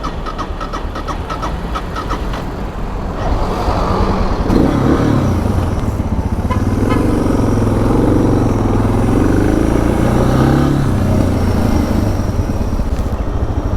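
Suzuki DR650's single-cylinder four-stroke engine running under way, its pitch rising and falling with the throttle; the choke has been left on. For the first three seconds or so the engine is quieter under the road and wind noise.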